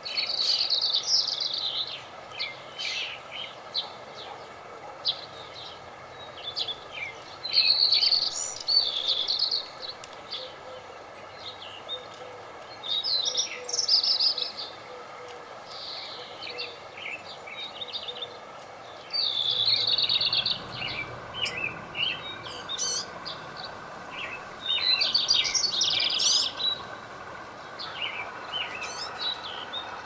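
Small birds chirping in short bursts of quick, high notes, one bout every few seconds, over a steady background hum.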